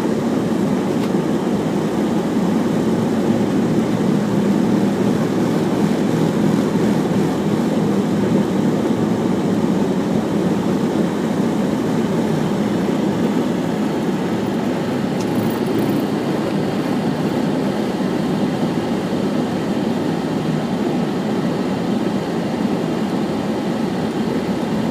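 Steady, even low rumble of car noise in slow traffic.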